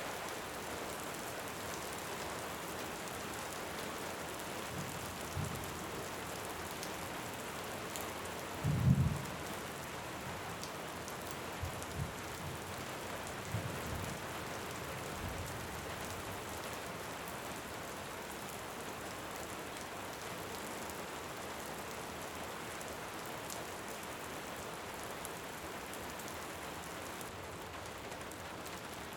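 Steady rain, with a few short low rumbles of distant thunder. The strongest rumble comes about nine seconds in.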